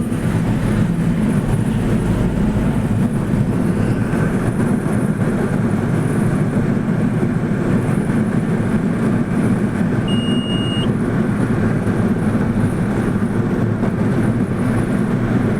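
Steady low rumble of a road vehicle on the move, engine and tyre noise running evenly, with one short high beep about ten seconds in.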